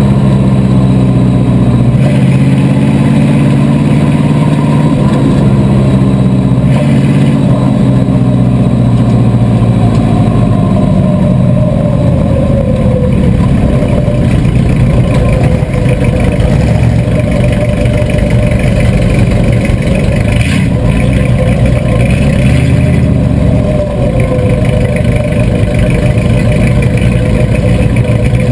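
A 305 bomber stock car's Chevrolet 305 small-block V8, heard from inside the stripped-out cabin, running loudly at low speed. For about the first twelve seconds its note is steady and low, then it rises and falls as the car speeds up and eases off.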